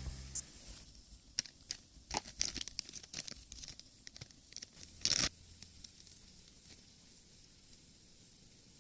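Scattered faint clicks and crackles over the first few seconds, then one short tearing noise about five seconds in.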